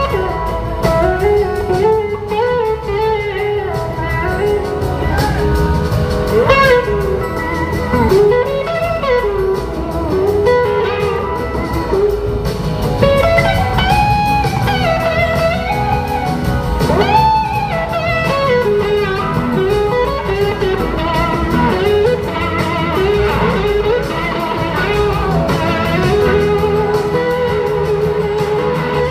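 Live blues-rock band playing an instrumental passage led by an electric slide guitar solo. Its notes glide and bend up and down over the band's steady accompaniment.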